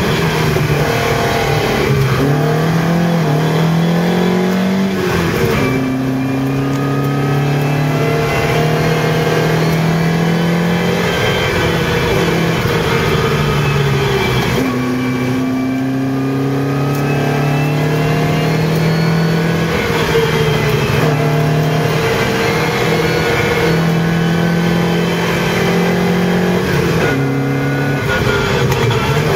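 Lotus Europa GT 1600 racing car's engine heard from inside the cabin under hard acceleration up a hillclimb course, revs climbing through each gear. The pitch drops sharply about six, fifteen and twenty-seven seconds in with gear changes, then climbs again.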